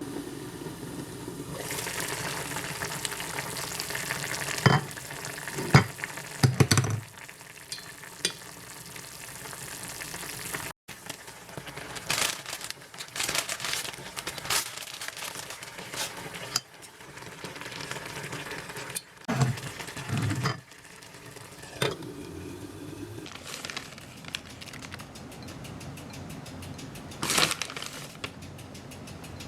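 Food sizzling as it fries in a pan, with a utensil stirring and knocking against the pan several times.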